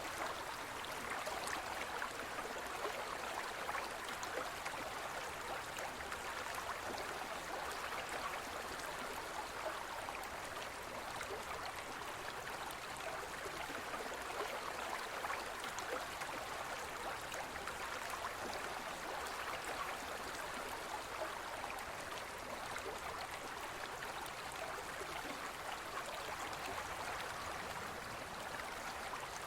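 A gentle forest stream flowing over rocks: a steady, even babble of running water.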